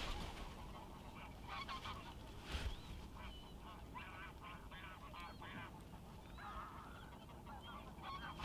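A flock of waterbirds calling on a lake: many short, overlapping honking calls, with a few higher slurred calls among them.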